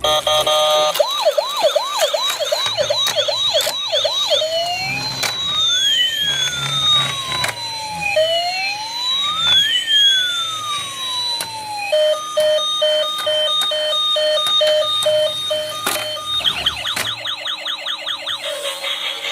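Electronic siren cycling through its patterns: a fast repeating yelp, then two overlapping slow wails rising and falling, then a few seconds of evenly repeated beeps, then a fast yelp again.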